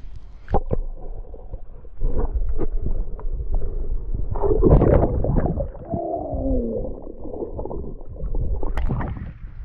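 Water sloshing and gurgling, muffled and rumbly, as a redfish is held in the water and let go, with a few knocks and a falling moan about six seconds in.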